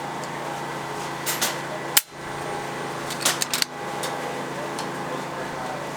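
A single sharp PCP air rifle shot about two seconds in, with a few light clicks before and after it, over a steady hum.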